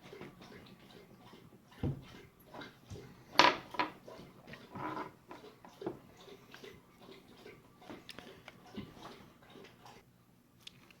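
A dog lapping up a drink of water, a run of irregular wet laps, loud enough to sound like an elephant drinking out of a lake.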